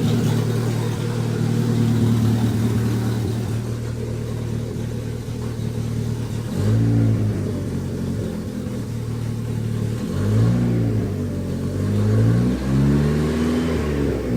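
Turbocharged four-cylinder engine of a Chrysler LeBaron running through a Cherry Bomb muffler. It idles steadily, then is revved up and let fall back several times in the second half. The new muffler keeps it quiet, with no turbo whistle to be heard.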